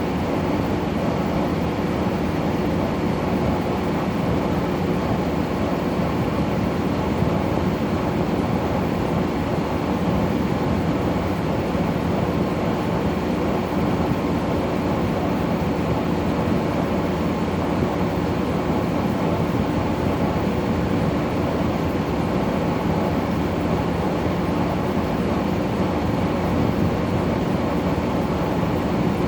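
LG 12,000 BTU air conditioner running close to the microphone: its blower rushes steadily over a steady compressor hum. The owner hears a small noise from the compressor that he says shouldn't be there, and he guesses it may be refrigerant travelling through the evaporator coils.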